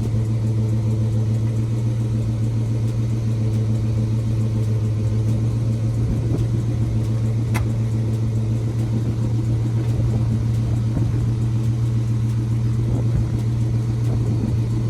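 1979 Chevrolet Caprice Landau's original carbureted engine running at a steady, even speed with a low rumble; a good-running motor with nothing wrong with it. A brief tick about halfway through.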